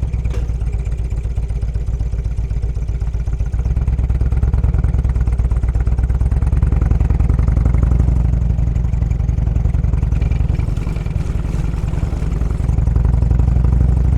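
Motorcycle engine running as the bike pulls away and rides on. The engine note picks up about three and a half seconds in, eases off around ten seconds, and picks up again near the end.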